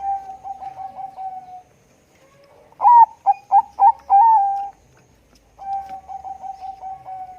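Zebra dove (Bangkok perkutut) cooing: a rapid staccato trill of coos, then a louder burst of stuttering notes ending in one held note about halfway through, and another trill of coos near the end.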